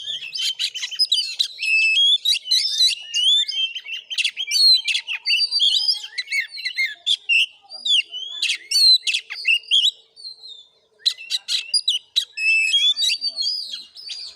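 Oriental magpie-robin (kacer) singing a rapid, varied stream of chattering notes, whistles and harsh squawks, broken by a pause of about a second near the ten-second mark. This is a kacer's fighting-mode song, the kind it gives when provoked by another bird.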